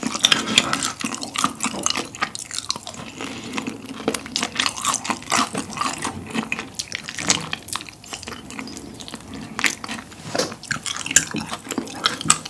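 Close-miked eating sounds: wet, sticky chewing and mouth smacks of saucy tteokbokki, with bites into fried chicken, as many quick, irregular clicks and squelches.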